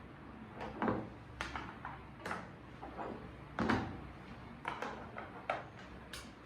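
Irregular clacks and knocks of kitchen items, such as food containers, lids and utensils, being handled and set down, a dozen or so over a few seconds.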